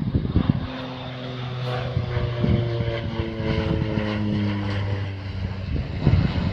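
Propeller airplane flying low past overhead, its engine and propeller drone sliding steadily down in pitch as it goes by. Wind buffets the microphone near the start and near the end.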